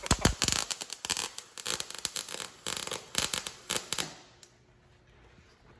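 Welding arc crackling in a fast, irregular string of pops, which stops about four seconds in.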